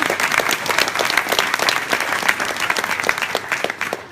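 Audience applauding, many hands clapping together, tailing off near the end.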